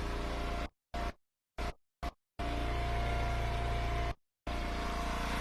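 Wood splitter's engine running steadily with a constant drone, the sound cutting out to dead silence several times in short gaps as the stream's audio drops out.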